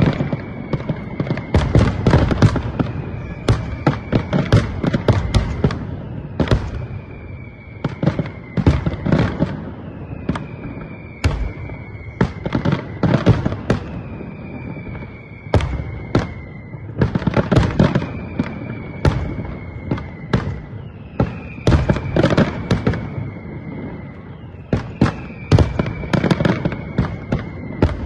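Fireworks display: aerial shells bursting in irregular clusters of sharp bangs. Behind them a high tone, falling slightly in pitch, repeats about every two seconds.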